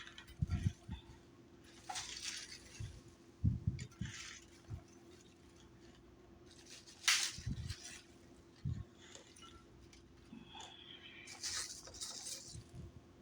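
Kitchen handling noises while salad is made: scattered rustles, light knocks and clinks of food and dishes being moved about, over a faint steady hum.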